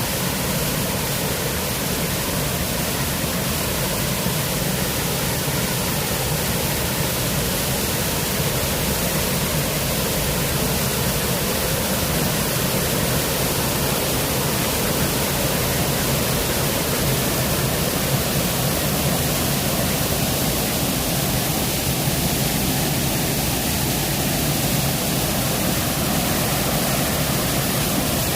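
Waterfall: water falling and cascading in a steady, even rush of noise with no breaks.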